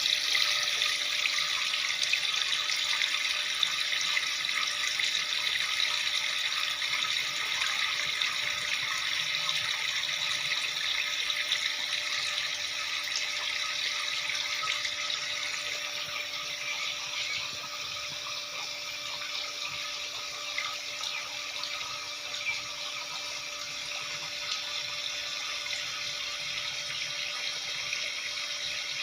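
Water falling and splashing steadily from a small plastic-bottle tabletop fountain, with a faint steady hum underneath.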